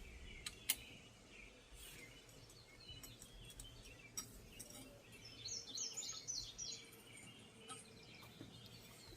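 Faint background with a few light clicks and taps, the loudest one just under a second in. Around the middle a bird chirps a quick run of short, high notes.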